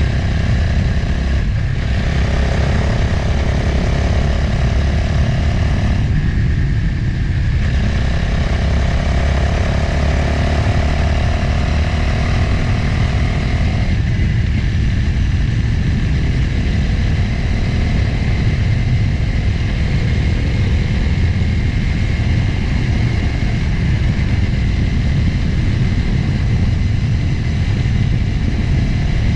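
Motorcycle engine running under way, with heavy wind rush on the camera microphone. The engine note shifts a few times, around 2 seconds in, between 6 and 8 seconds, and about 14 seconds in.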